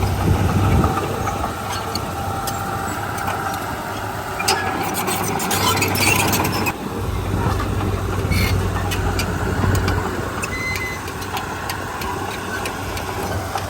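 Heavy diesel machinery engine running with a steady low drone. The drone fades for a few seconds, and metallic clanks and rattles sound in the middle before it returns.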